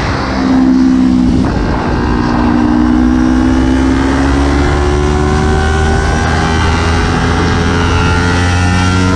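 Kawasaki Ninja 300's parallel-twin engine accelerating in one gear, its pitch climbing slowly and steadily after a brief dip near the start, over a constant low rumble of wind on the onboard camera.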